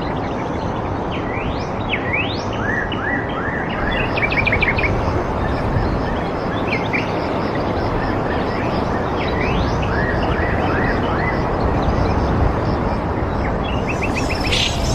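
Birds chirping: repeated short up-slurred whistles and quick trills, over a steady rushing noise.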